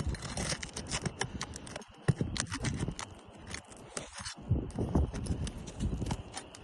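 Hand tool clicking, tapping and scraping against roof shingles in quick, irregular strokes as the nails holding a shingle are worked loose.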